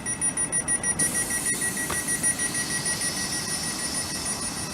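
Electronic warning beeper on the train sounding a high, rapidly pulsing tone, with a hiss joining about a second in.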